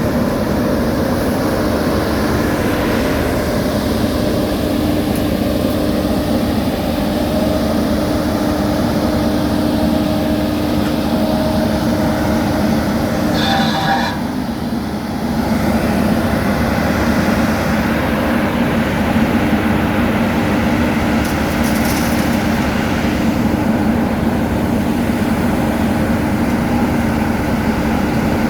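Heavy diesel road-paving machinery running steadily with a constant low drone. A short high-pitched squeal comes about halfway through.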